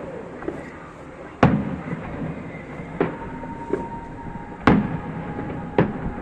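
Aerial fireworks shells bursting: four loud bangs, a second or more apart, with fainter pops between them, each bang trailing off in a low rumble.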